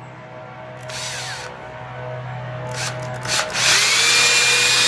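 Power drill spinning up about three-quarters of the way in and running steadily with a high whine, enlarging a screw hole in a wooden toy leg so the screw can spin freely in it. Before it, brief rustling of the wood being handled.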